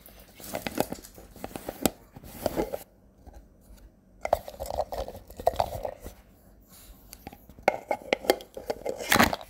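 A dog sneezing and snuffling in short sharp bursts while the owner asks what it wants, with scattered clicks and rustles in between. The loudest burst comes near the end.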